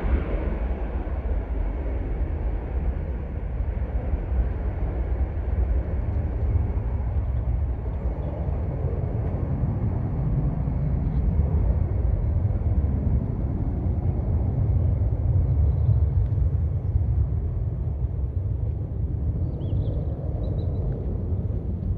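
Jet airliner's engine noise, a low steady rumble, its higher part dying away in the first couple of seconds as the aircraft moves off.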